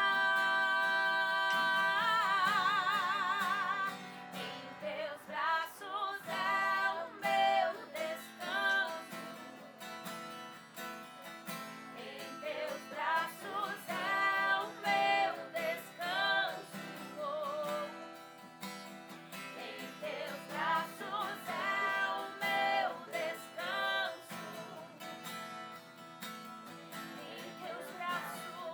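A woman singing a worship song to strummed acoustic guitar. She holds one long note with vibrato over the first few seconds, then sings shorter phrases over the guitar.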